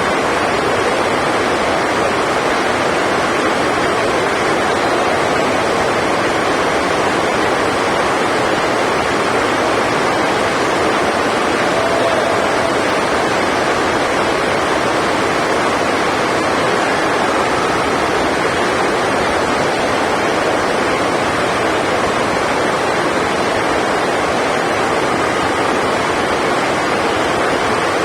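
Heavy rain falling, a steady loud hiss that does not let up.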